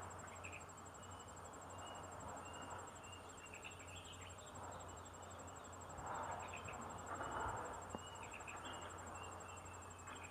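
A steady, high, rapidly pulsing insect trill, such as a cricket or cicada, with faint short chirps and a couple of soft rustling swells a little after the middle.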